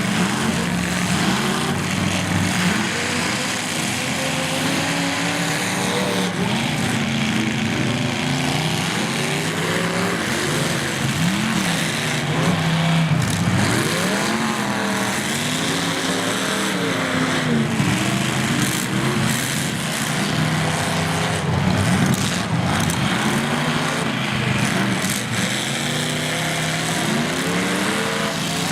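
Several demolition derby cars' engines revving up and down over one another, with scattered bangs of cars colliding, most in the second half.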